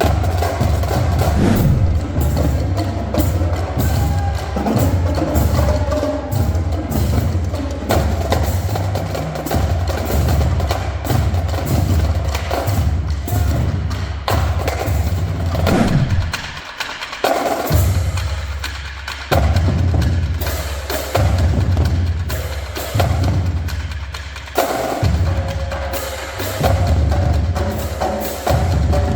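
Percussion-driven drum music: fast, dense drum hits with sharp clicking strokes over a heavy low bass, the low end dropping out briefly a little past halfway.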